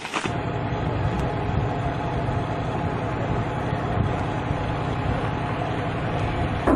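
Steady engine noise: an even, unchanging drone with a low hum.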